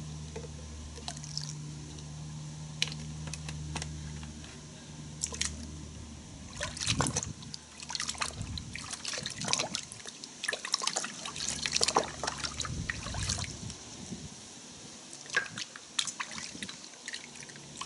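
Water splashing and dripping in a bucket of car-wash soap solution, in irregular bursts that start about a third of the way in. A low steady hum sits under the first few seconds.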